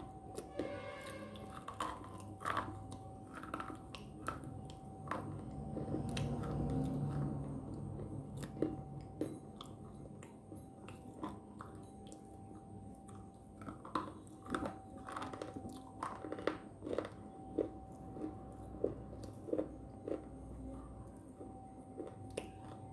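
Biting and chewing hard, crunchy slate sticks close to the microphone: sharp snaps and crunches, coming most often in the second half, with a faint steady tone underneath.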